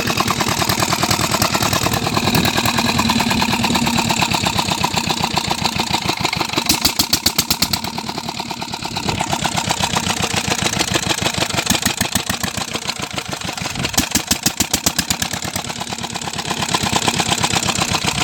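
Old Petter diesel engine running steadily at a tubewell, a rapid even beat of firing pulses.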